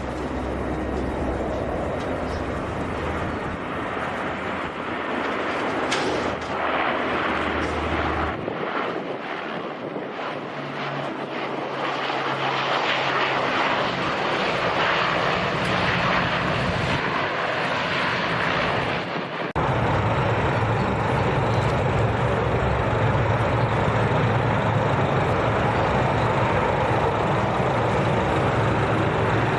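Aircraft engines running, a loud, dense noise. About two-thirds of the way through it breaks off abruptly and carries on steadier and a little louder, with a strong low hum.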